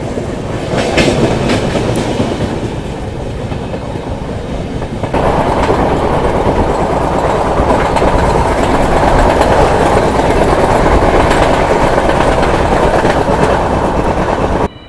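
Passenger train running at speed: a steady rumble of wheels on rails with clickety-clack over the rail joints. It gets louder about five seconds in and cuts off suddenly near the end.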